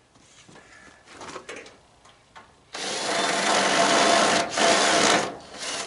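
A few light handling clinks, then a power drill runs steadily for about three seconds with a brief let-off in the middle, backing a screw out of the tanning bed's frame.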